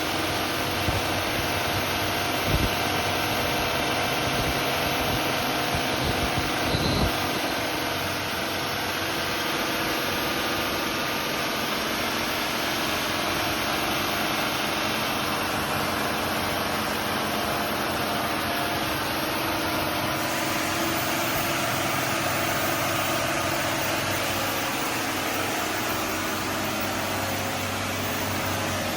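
Bayliner 4788 motor yacht's inboard diesel engines running steadily at an even speed, with a few short knocks in the first several seconds.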